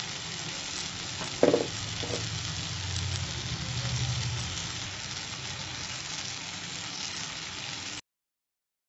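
Chopped onion, tomato and green chilli sizzling in hot oil in a metal pan as a masala, with a brief louder pitched sound about a second and a half in. The sizzle cuts off suddenly near the end.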